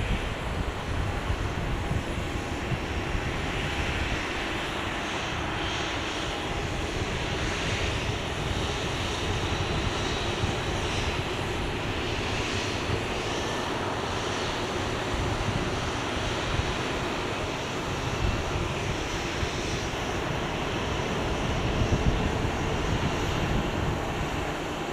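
Airliner engines running steadily at an airport, a broad roar with an uneven low rumble that swells a little midway and again near the end.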